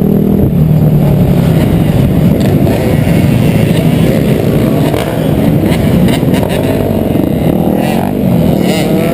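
Dirt bike engines running and revving, loud and continuous, their pitch shifting up and down.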